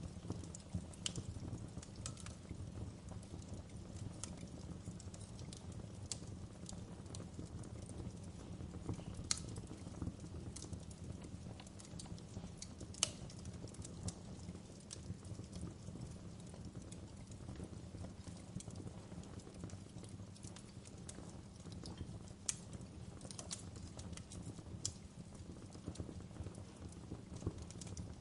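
Wood fire crackling, with irregular sharp pops and snaps over a steady low rumble of burning flames.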